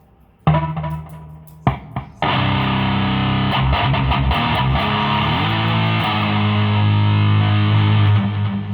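Distorted electric guitar played through a Fender Bassman 200 amplifier: two short chord stabs, then a held chord from about two seconds in that slides up in pitch midway and rings on until it fades near the end.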